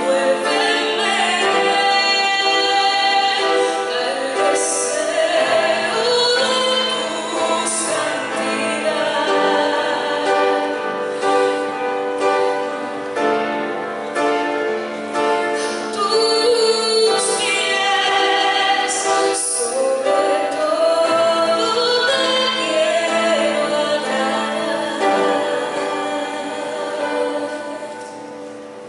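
A woman singing a Christian praise song over musical accompaniment; the music grows quieter near the end.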